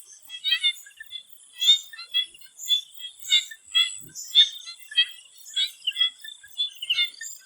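Swamp frogs calling in a chorus of short, high croaks, one or two a second, over a steady high-pitched drone.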